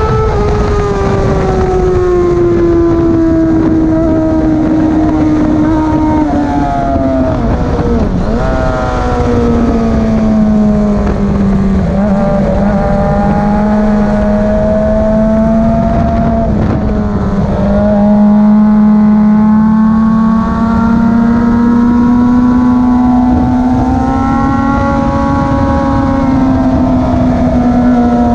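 Motorcycle engine running hard, its pitch sliding slowly down and back up, with a brief break in the note about three times, as at gear changes.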